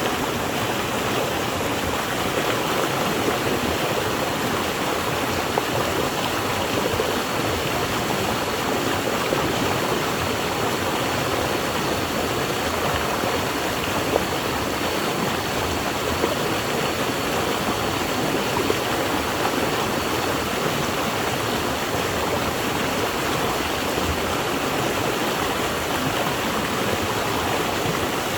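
Flowing water rushing steadily over rocks, a constant even wash of sound with the odd brief splash.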